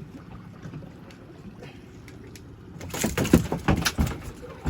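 A freshly caught cobia thrashing on the boat, giving a quick run of loud slaps and thumps in the last two seconds. Before that there is only a low, steady rumble.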